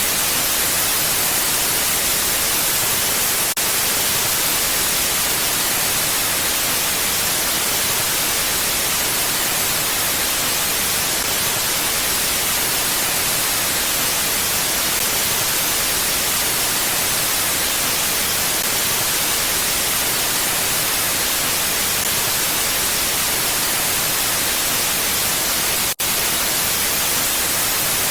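Steady, even hiss of wind with no gusting, cutting out for an instant near the end.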